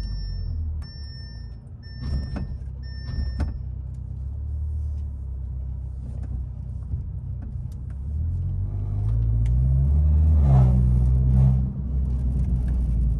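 Audi A3 with its muffler and resonator deleted, heard from inside the cabin, driving, then accelerating about eight seconds in with the exhaust note rising in pitch and getting louder before dropping suddenly near the end, as at a gear change. A beeping chime repeats about once a second in the first three seconds.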